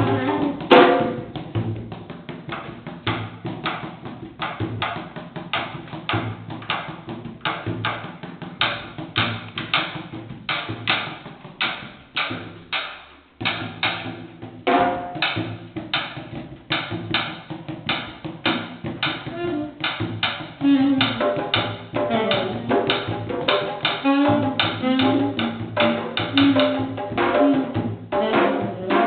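Candombe drums played in a driving, steady rhythm of hand and stick strokes, with sharp stick clicks on the wooden drum shells; the playing breaks off briefly about halfway through, then resumes.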